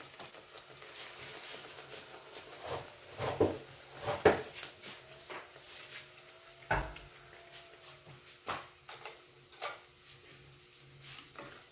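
Spinach puri deep-frying in hot oil with a faint sizzle, broken by scattered light clinks and knocks of kitchen utensils, the sharpest about four and seven seconds in.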